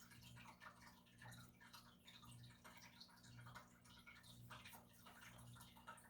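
Near silence: faint room tone with a low hum that swells about once a second, and a few faint small ticks.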